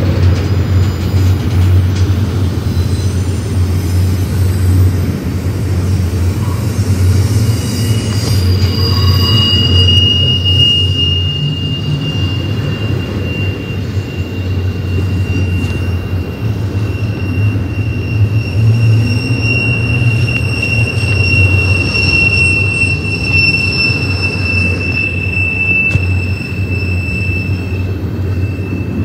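Freight train of double-stack container well cars rolling past at close range, with a steady heavy rumble of steel wheels on the rails. About a third of the way in, a high, thin wheel squeal sets in and holds until near the end, joined by a second, higher squeal in the latter half.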